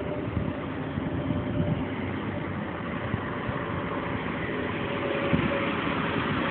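Engine of a 1991 Honda CRX with a VTEC engine running as the car drives up, growing louder as it nears.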